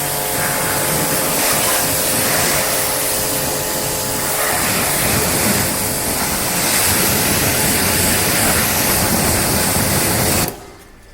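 Pressure washer jet spraying water in a steady loud hiss that cuts off suddenly near the end, as the trigger is released.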